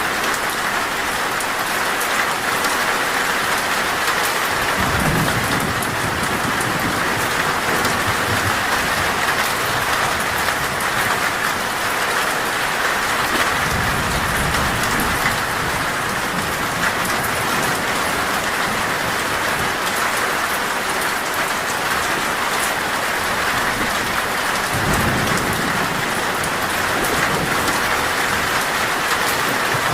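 Heavy rain drumming steadily on a metal roof, with low thunder rumbling several times: about five seconds in, again around the middle, and near the end.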